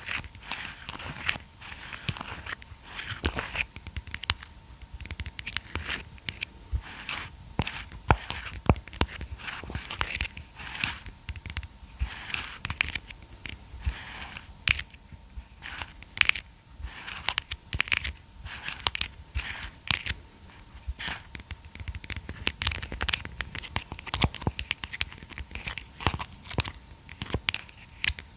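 Plastic massage roller and massage ball handled close to the microphone, giving a dense, irregular run of sharp clicks and crackly crinkles with no pause.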